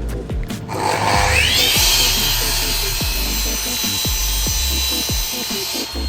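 An electric power tool's motor spins up with a rising whine about a second in, then runs at steady speed working wood with a broad rushing noise. Background music with a steady beat plays underneath.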